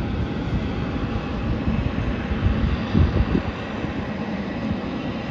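Jet airliner engines heard at a distance: a steady rush of noise with a faint whine and an uneven low rumble that swells about three seconds in.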